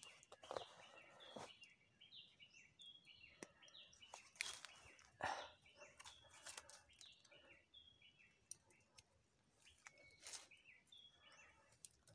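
Faint birds calling in many short, quick, slightly falling chirps that keep repeating, with a few brief rustles of dry leaves and twigs being handled.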